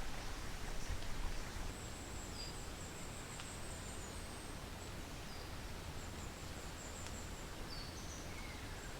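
Steady hiss of rain falling, with a few faint, high-pitched chirps and a thin high trill over it.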